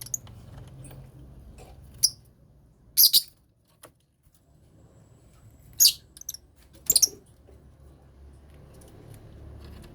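Lovebirds in a colony aviary giving four short, sharp, high-pitched chirps, spaced a second or two apart.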